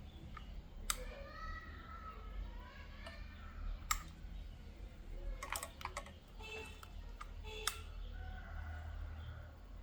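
Scattered sharp clicks and taps of small tools and parts being handled on a repair bench, a few spread over several seconds with a short cluster in the middle. A steady low hum runs beneath them.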